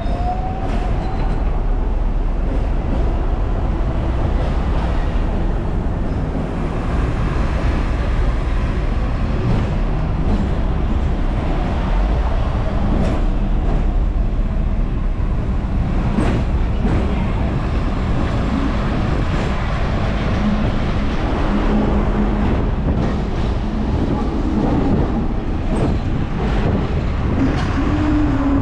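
Hong Kong double-decker tram running, heard from on board: a steady low rumble of wheels on rails and motor, with scattered clicks and knocks through the ride.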